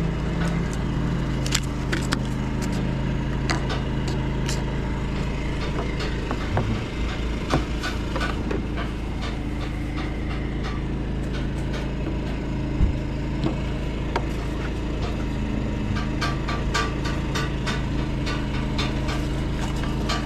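An engine idling steadily, a constant low hum, with scattered light clicks and knocks over it.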